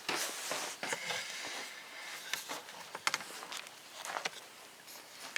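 Handling noise: light rustling and scattered sharp clicks, with a high hiss over about the first second and a half.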